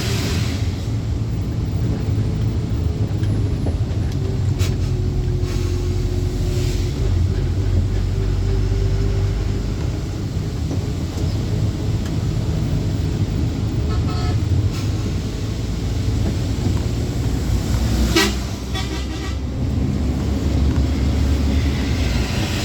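Truck engine and road noise as a steady low rumble while driving, with a vehicle horn sounding briefly about fourteen seconds in and more strongly about eighteen seconds in.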